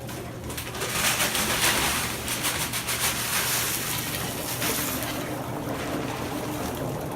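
Dry ice bubbling vigorously in water as it sublimates: a continuous, rapid bubbling and fizzing, a little louder from about a second in.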